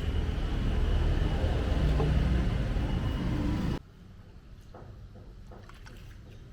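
Steady low rumble, like a road vehicle running, that cuts off suddenly about four seconds in; a much quieter background with a few faint clicks follows.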